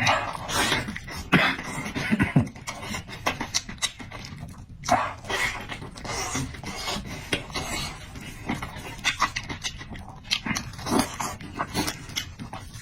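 A person chewing close to the microphone, with many quick, irregular wet mouth clicks.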